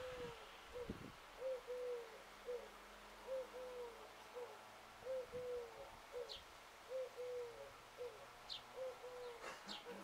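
A bird giving low hooting coos in repeated short–long–short phrases, about one phrase every two seconds. A few brief high chirps from a smaller bird come in during the second half.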